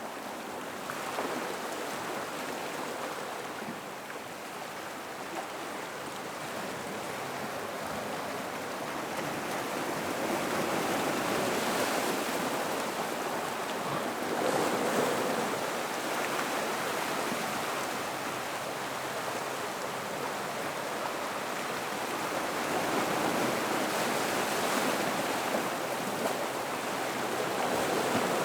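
Gentle ocean waves washing over rocks into a rock pool: a continuous rushing wash that swells and eases slowly, with stronger surges about 12 and 15 seconds in and again near the end.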